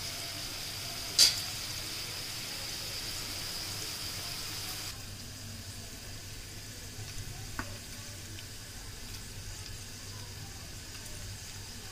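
Chopped vegetables sizzling in hot oil in a wok, with one sharp knock of the wooden spatula against the pan about a second in. About five seconds in the sizzle cuts off and a quieter steady hiss of noodles in a pot of hot water follows, with a light clink of metal tongs.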